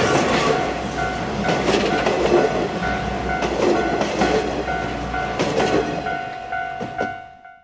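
Coaches of a steam-hauled passenger train rolling past, wheels clattering over the rail joints. The rumble dies away as the last coach goes by and fades out near the end.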